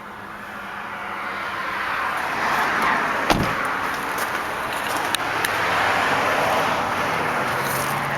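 Traffic passing by, a rushing hiss that swells and fades twice, with one sharp thud about three seconds in.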